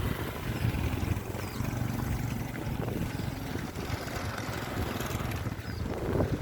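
Wind buffeting the microphone: a steady, uneven low rumble with no engine tone in it.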